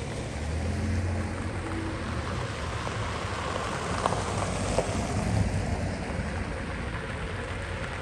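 Steady outdoor noise with a low rumble, like wind or distant traffic, and a couple of faint clicks about halfway through.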